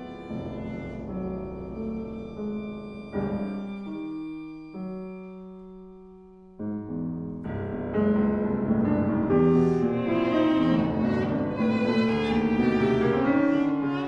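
Viola and piano playing classical chamber music. A held chord and a long low note fade away about five seconds in. The piano comes back in, and from about eight seconds both play fuller and louder, the viola with vibrato.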